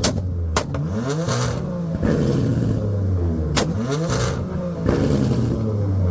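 Sports car engine revved hard over and over, each rev sweeping up and dropping back, with sharp exhaust cracks at the start, about half a second in and about three and a half seconds in.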